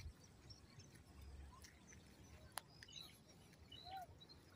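Near silence: faint open-air quiet with a few faint bird chirps and one brief click about two and a half seconds in.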